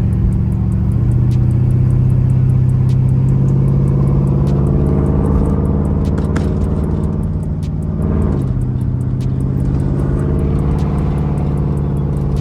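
Car engine pulling under way after an overhaul, with a steady note that drops once, as at a gear change, about two-thirds of the way through, then holds steady again. The engine has a slight miss that the owner suspects is an O2 sensor problem.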